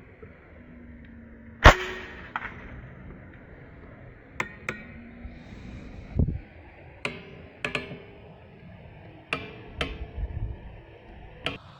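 One sharp, loud crack with a short ring a couple of seconds in, followed by a string of lighter, sharp clicks and knocks, some with a slight metallic ring.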